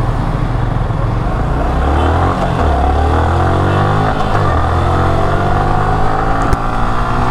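Motorcycle engine under way and accelerating. Its pitch dips twice, about two and a half and four seconds in, as gears change, then climbs steadily.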